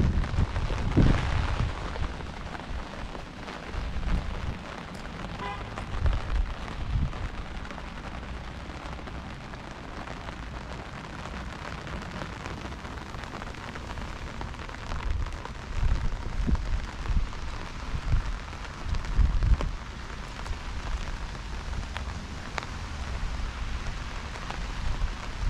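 Heavy rain falling as a steady hiss, with low rumbling swells that come and go, the strongest about a second in and again between about 16 and 20 seconds in.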